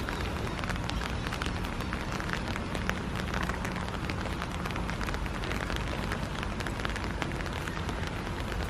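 Steady rain falling, with a dense scatter of small, sharp drop ticks over an even hiss.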